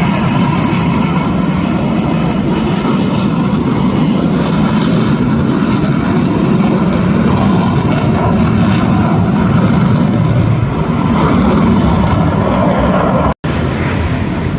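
Jet aircraft engine noise at an airshow, loud and steady throughout, with a sudden brief break about 13 seconds in.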